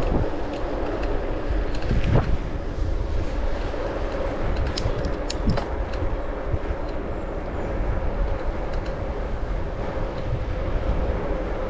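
Wind buffeting a GoPro's microphone while riding a bike, a steady rumble with a faint even hum underneath and a few light clicks and ticks about five seconds in.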